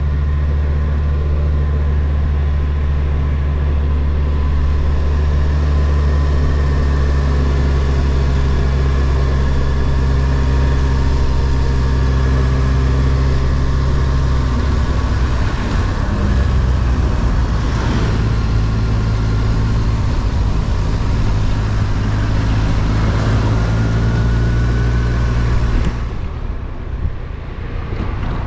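Kawasaki Versys motorcycle engine running steadily while riding, with road and wind noise. The engine note shifts about halfway through and the level drops near the end.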